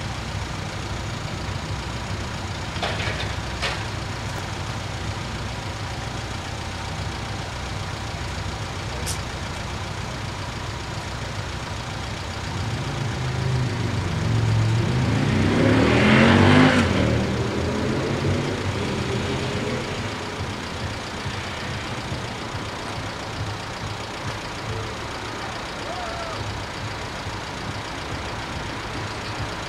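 A Desiro regional train passes over the level crossing: its engine and running noise swell from about twelve seconds in, peak in the middle, then fade with a falling pitch. Steady low vehicle and engine noise continues underneath while the crossing stays closed.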